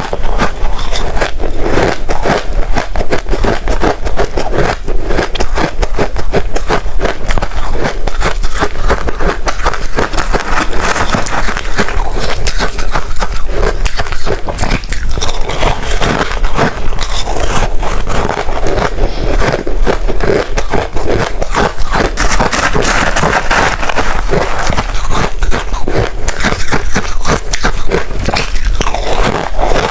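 Hard ice being bitten and chewed close to the microphone: a dense, unbroken run of loud cracks and crunches.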